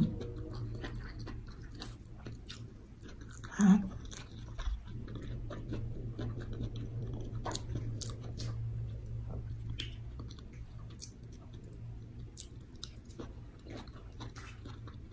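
Close mouth sounds of a person chewing a vegetable dish and rice eaten by hand: wet chewing with many small smacking clicks. A short vocal sound from the eater, about four seconds in, is the loudest moment, over a steady low hum.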